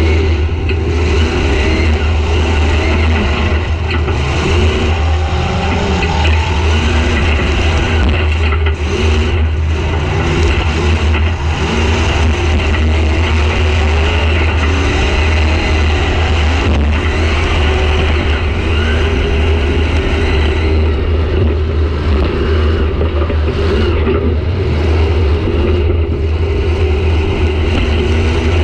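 Demolition-derby car's engine running loud, heard from inside the stripped cabin, its pitch rising and falling as the throttle is worked.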